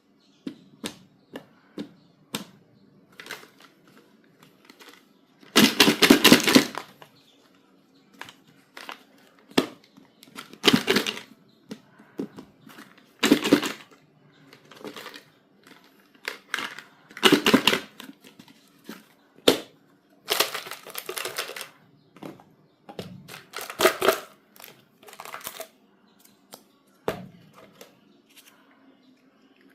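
Packaging being unboxed by hand: crinkling bursts, the longest about six seconds in, between scattered clicks and taps.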